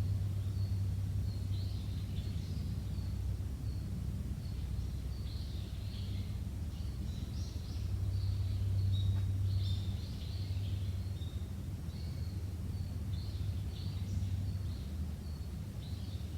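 Small birds chirping in short, high notes, repeated many times over a steady low rumble.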